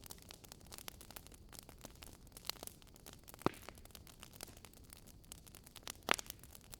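Wood fire in a fireplace crackling: a steady stream of small snaps over a low hiss, with a few louder pops, a sharp one about three and a half seconds in and the loudest near six seconds.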